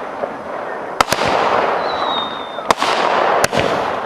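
Consumer fireworks going off: four sharp bangs, two in quick succession about a second in and two more later, over a steady crackling hiss, with a short high whistle in the middle.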